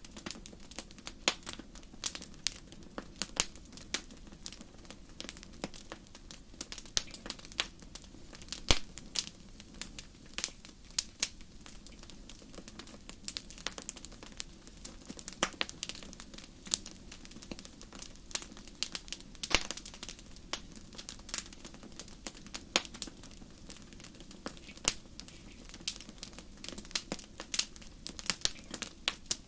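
Wood fire burning in a fireplace, crackling: irregular sharp pops and snaps, a few a second, some louder than others, over a soft steady rush.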